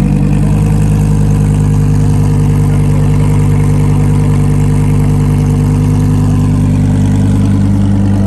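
A car engine idling loudly and steadily, at an even pitch.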